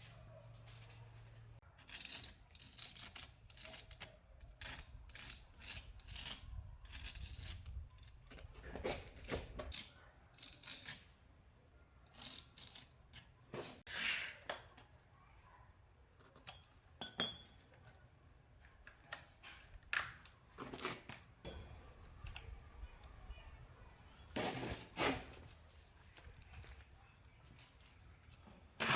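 Scattered light clicks, taps and clinks at an uneven pace, as of small hard objects being handled and knocked together, over a faint low hum.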